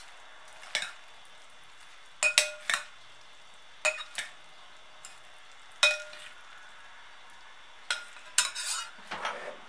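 Utensils clinking and tapping against a salad dish, separate sharp clinks with a brief ring, coming faster near the end, over a steady faint hiss.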